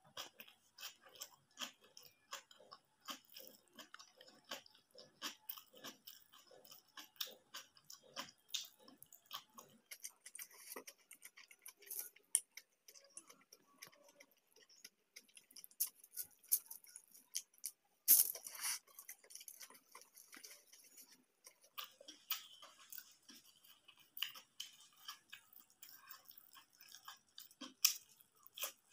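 Close-miked chewing of an egg-and-rice meal, with many small crunches and wet mouth clicks in an uneven rhythm. One louder, sharp crunch comes a little past halfway.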